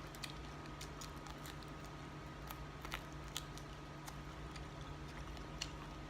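Eating sounds: scattered small clicks and smacks of chewing and food handling over a steady low hum.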